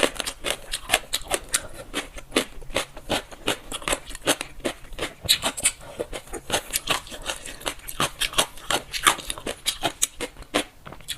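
Close-miked crunchy chewing of dressed gong cai (crisp dried celtuce stems): a dense run of sharp, irregular crunches and clicks, several a second.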